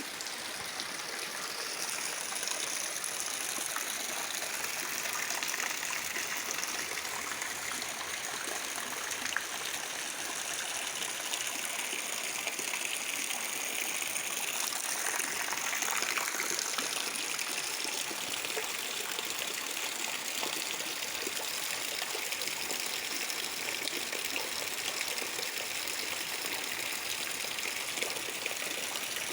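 Heavy rain with rainwater running and trickling, a steady rushing hiss.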